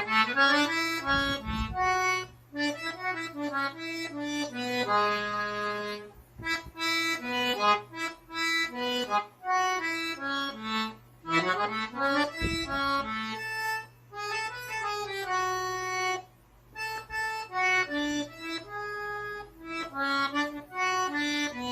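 Accordion playing a melody slowly, one sustained note after another in small steps, with a few chords and occasional low bass notes.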